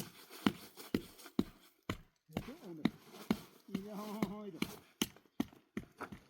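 Sharp knocks at an even pace, about two a second, with a short pitched call twice near the middle.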